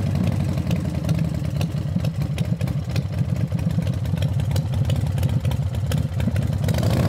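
Motorcycle engine idling steadily at an even speed.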